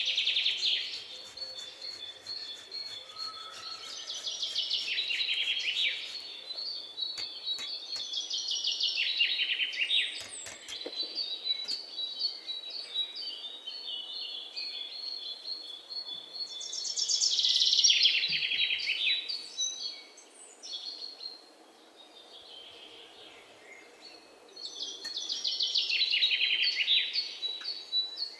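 Birds calling in repeated high trills, each about two seconds long and falling in pitch, coming every few seconds.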